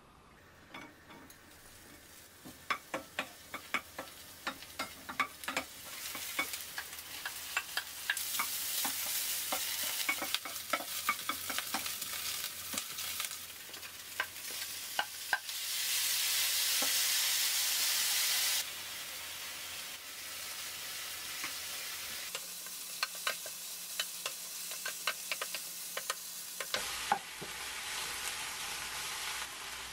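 Diced Spam, green onion and kimchi stir-frying in oil in a nonstick pan: a steady sizzle with a wooden spatula clicking and scraping against the pan. The sizzle grows louder and holds loud for about three seconds partway through.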